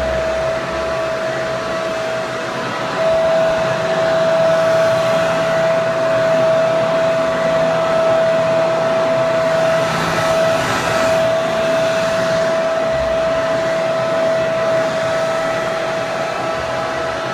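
Hair dryer running steadily: a rush of air with a strong motor whine. It gets slightly louder about three seconds in.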